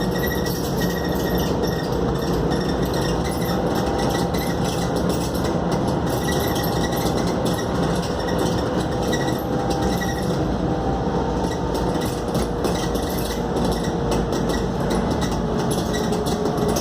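Cabin sound of a Scania K280UD double-decker bus on the move: a steady mix of engine drone and road and tyre noise, with light rattling from the bodywork.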